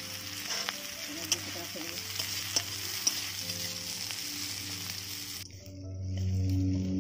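Onions and spices frying and sizzling in a metal wok over a wood fire, with a spatula scraping and clinking against the pan a few times. The sizzling cuts off about five and a half seconds in, leaving soft background music.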